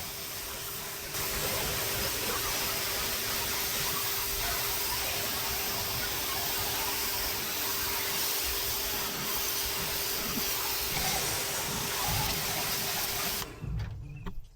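Pressure washer jet spraying with a steady hiss and a steady hum. It gets louder about a second in and cuts out near the end.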